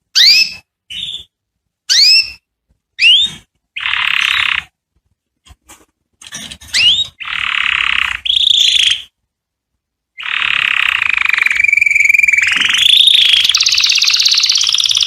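Canary singing: quick rising whistled notes and short buzzy rolls, then after a brief pause a long unbroken trill that climbs in pitch near the end.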